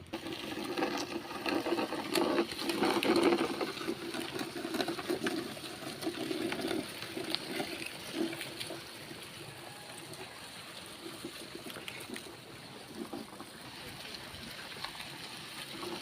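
Irrigation canal water flowing and gurgling as it runs into a paddy field, louder and more turbulent in the first half, then settling to a steadier, quieter flow.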